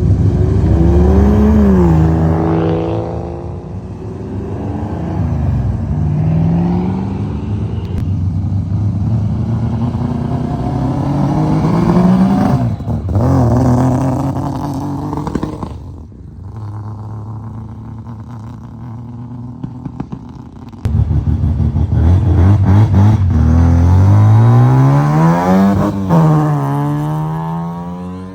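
Car engines revving as cars pull away one after another, the engine note repeatedly climbing and dropping back. A louder one starts suddenly about three-quarters of the way through and revs up hard before falling away near the end.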